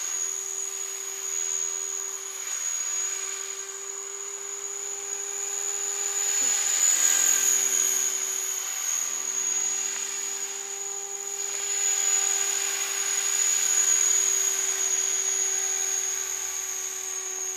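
Remote-control helicopter in flight, its motor and rotor giving a steady high-pitched whine over a lower hum. It grows louder and softer several times, loudest about seven seconds in and again near fourteen seconds.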